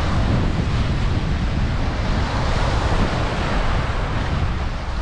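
Strong wind buffeting the microphone in a steady low rumble, over the rush of rough sea surf.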